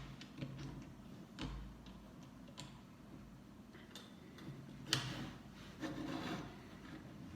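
Plastic Lego bricks being handled and pressed together: scattered sharp clicks and taps, the loudest about five seconds in, with a short stretch of rubbing around six seconds.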